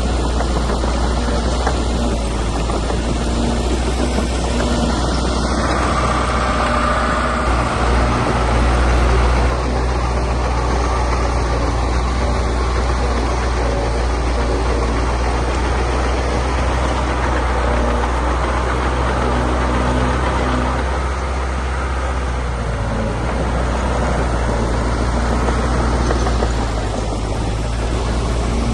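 Diesel engine of heavy earthmoving machinery running steadily, its pitch shifting slightly a few times.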